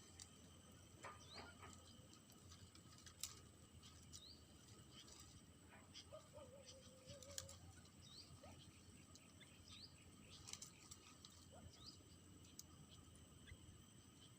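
Faint bird chirps: short rising notes repeated about every two seconds over a quiet background hiss, with a brief wavering tone about halfway through.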